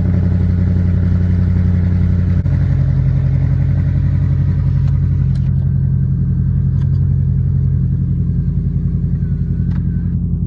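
Car exhaust droning steadily while driving, a loud low engine note heard from inside the car. The note steps slightly lower in pitch about two and a half seconds in.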